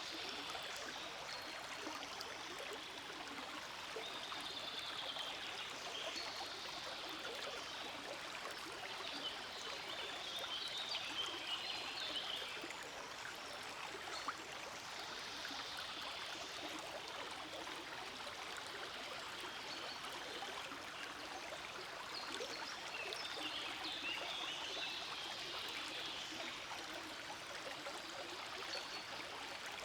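Forest creek flowing steadily: a continuous rush of running water that brightens now and then.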